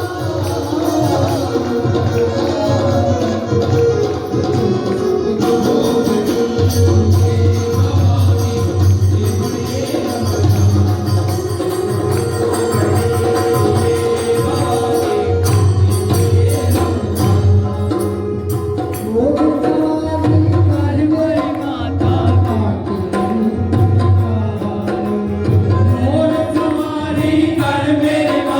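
Hindu devotional bhajan: singing over a steady, repeating low drum beat with tambourine-like jingles.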